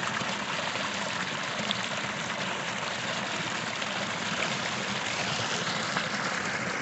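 Small creek flowing steadily over rocks, a continuous rushing trickle of water.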